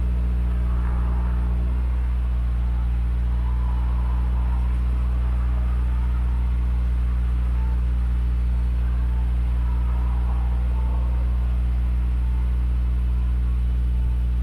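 Car engine idling steadily through an EXAS EVO Tune aftermarket muffler while warming up after a cold morning start, a deep, low exhaust drone.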